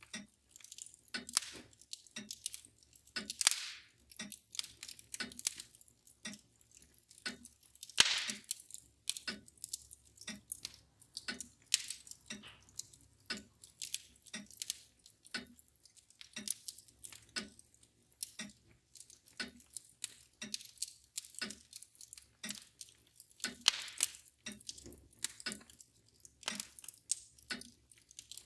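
Wood fire crackling and popping irregularly, with a mantel clock ticking steadily a little faster than once a second. The loudest pops come about three and a half and eight seconds in.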